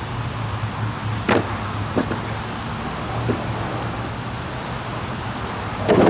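Skateboard wheels rolling on wet pavement with a steady rumble, broken by a few sharp knocks of the board, the loudest near the end.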